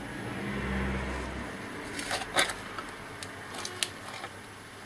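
A few light clicks and taps from handling the opened laptop's plastic and metal parts, after a brief low rumble in the first second and a half.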